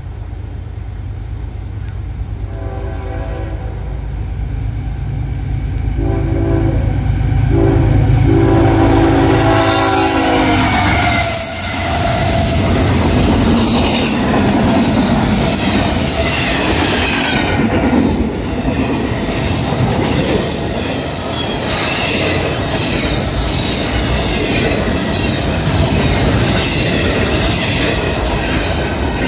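CSX freight train approaching with its diesel locomotives rumbling louder while the multi-chime horn sounds in long blasts, its pitch dropping as the locomotives pass about ten seconds in. The train's cars then roll by close, wheels clattering over the rail joints with thin, high wheel squeals.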